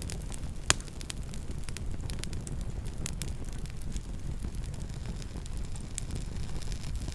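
Campfire crackling: many small snaps and ticks over a steady low rumble of the burning fire, with one loud sharp pop just under a second in.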